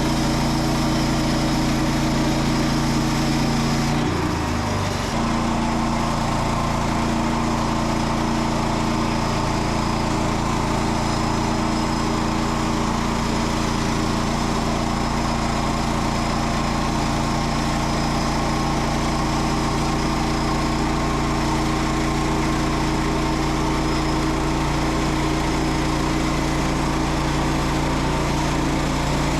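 Small petrol engine of a Frontier OS27 portable bandsaw mill running steadily under load as the band blade saws a larch log, with a brief dip in engine speed about four seconds in. The blade is dull.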